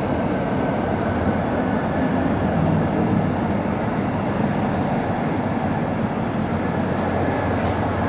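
Jet aircraft engine noise, a steady loud rumble with a little more hiss coming in near the end.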